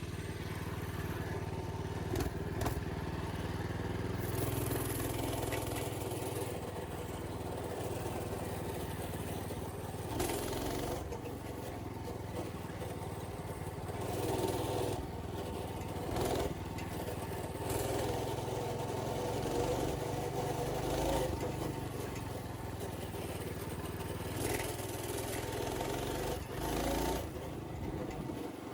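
Old minibike's small engine running as it is ridden along a trail, its note rising and falling every few seconds with the throttle, with occasional knocks and rattles from the bumps.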